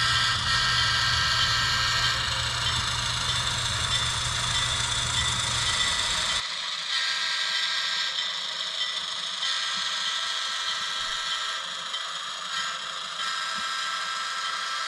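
HO-scale model locomotive running on the layout, giving a steady hum with a higher whine over it. The low part of the hum cuts off suddenly about six seconds in, and the higher whine and noise carry on.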